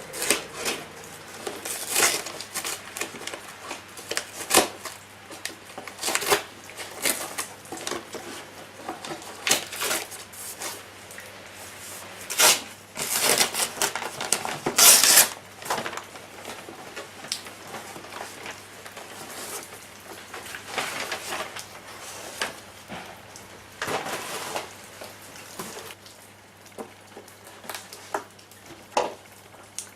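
Metal campfire frying pan being handled: irregular clinks and knocks with short scrapes, the longest scraping stretch about halfway through.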